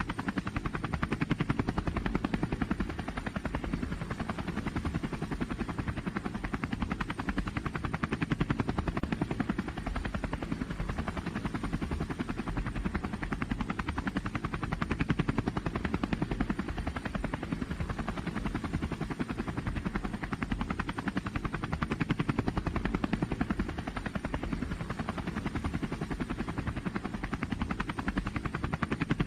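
Pulling vehicle's engine running loud, with a fast pulse through the whole stretch. It swells louder a few times, about a second, eight seconds and fifteen seconds in.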